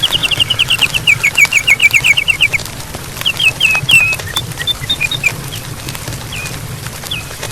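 A bird calling: a fast run of about ten short chirps a second, falling slightly in pitch, for about two and a half seconds, then scattered single chirps.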